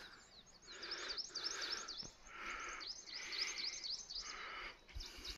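Small birds chirping and singing, many quick high chirps overlapping, faint, over a soft hiss that comes and goes.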